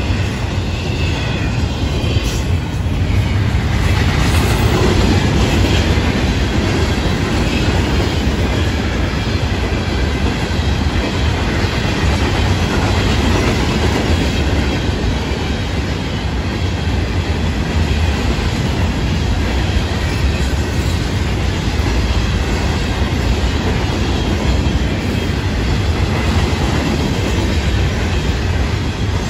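Florida East Coast Railway freight cars rolling past: a steady, loud rumble of steel wheels on the rails as double-stack container well cars give way to rock hopper cars.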